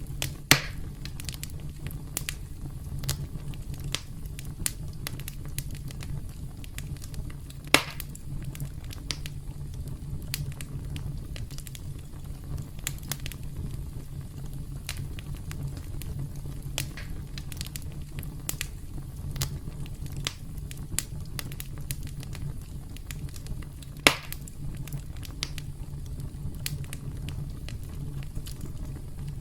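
Campfire crackling: a steady low rumble of burning wood with frequent small snaps, and three louder pops, one right at the start, one near eight seconds and one about twenty-four seconds in.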